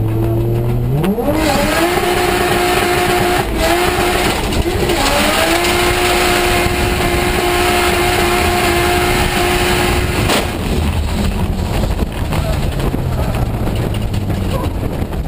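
Toyota JZX100's straight-six engine, heard from inside the cabin on a drift run. About a second in it revs up sharply and holds high revs, dipping briefly twice around four to five seconds. After about ten seconds the revs drop back.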